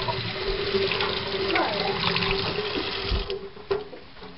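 Kitchen tap running water over asparagus spears being rinsed in the sink, a steady rush with a faint hum in the pipes. The water stops about three seconds in, followed by a single knock.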